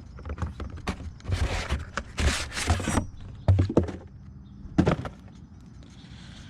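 Clunks, knocks and rustling from exhaust parts being handled and set down: used steel pipe and glass-pack mufflers. There are a few sharp knocks, and scraping or rustling in the first half.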